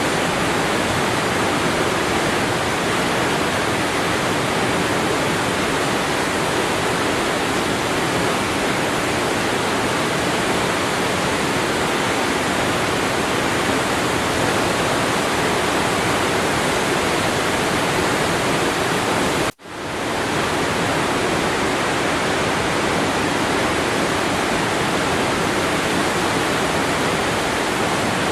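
Waterfall rushing in a steady, even roar of falling water. About two-thirds of the way through it cuts out abruptly for an instant and fades back in, an edit join in the recording.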